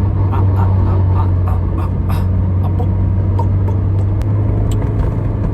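Steady low drone of a car running, heard from inside the cabin, with a few light clicks in the first two seconds.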